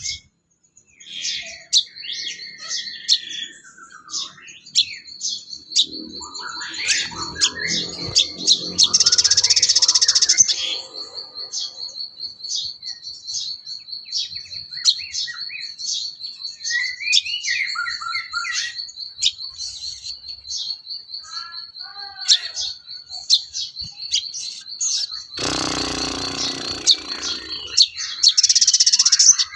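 A sogon bird singing: a long, steady, high trill with many short chirps and rising and falling notes over it. Twice a louder, noisy burst covers the song for a second or two.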